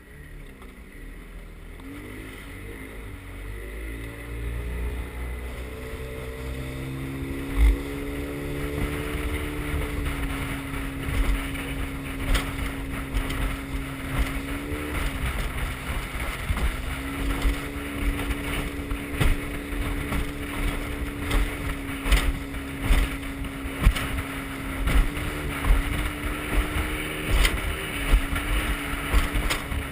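Motorboat engine speeding up, its pitch rising over the first ten seconds or so, then running at a steady pitch with small dips. Wind noise on the microphone and irregular thumps run underneath.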